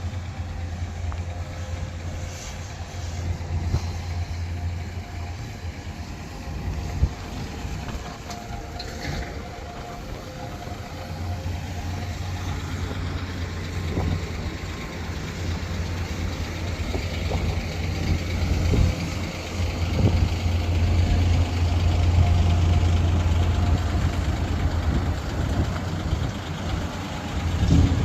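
An engine running steadily: a low rumble with faint whining tones above it and a few knocks. It dips for a few seconds in the middle and swells again toward the end.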